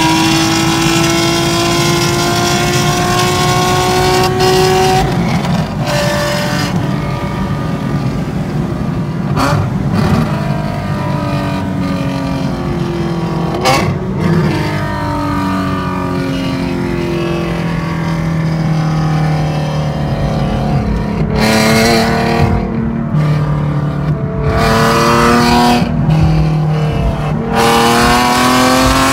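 Infiniti G37S's 3.7-litre V6 through an untuned straight-pipe exhaust, heard from inside the cabin, pulling hard under acceleration. The engine note climbs steadily, breaks off and drops, then climbs again several times, with a run of short rising pulls near the end.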